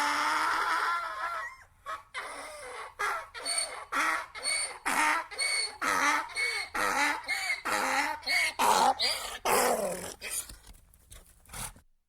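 Donkey braying: one long drawn-out first note, then a rapid run of alternating hee-haw strokes, about two a second, that weakens near the end.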